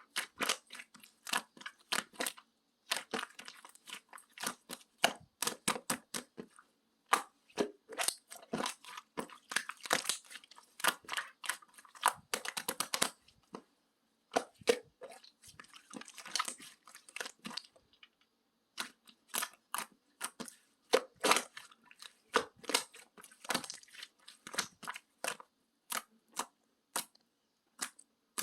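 Bouncy, jelly-like slime being squeezed, poked and stretched by hand: irregular sticky clicks and small pops coming in quick flurries, with a few short pauses.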